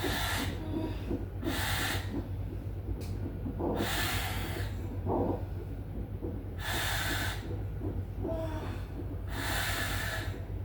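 Heavy, loud breathing of a woman in labour: about five deep hissing breaths, two to three seconds apart.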